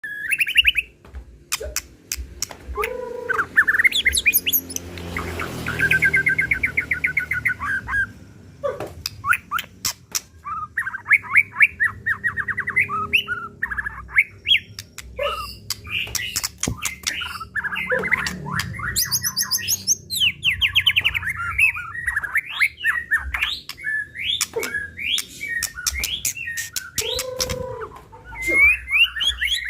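White-rumped shama (murai batu) singing hard in an agitated, fired-up state, running through its repertoire of mimicked phrases. It is a fast, varied stream of rapid trills, sharp clicks and sliding whistles with hardly a pause.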